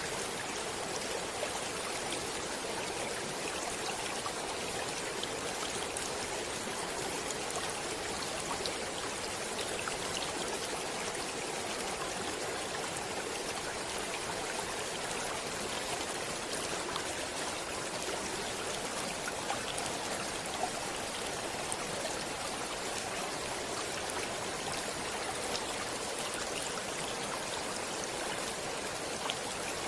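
Stream running steadily: an even splashing of moving water with small drips and ticks scattered through it.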